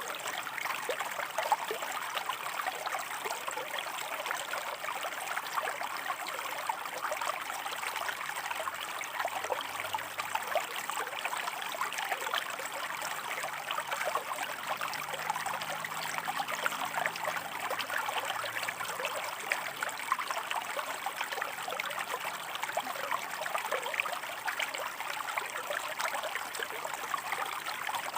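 Shallow stream water running and trickling over rocks: a steady babble made of many small splashes.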